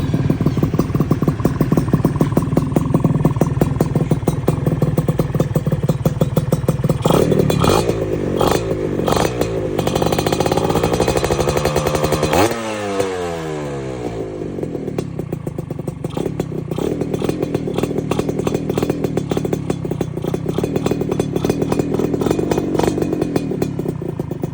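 Honda Nova RS 110 two-stroke single-cylinder engine breathing through a Tyga aluminium-can exhaust: idling, then a few quick throttle blips about a third of the way in, a longer rev that climbs and drops sharply back down about halfway through, and idling again.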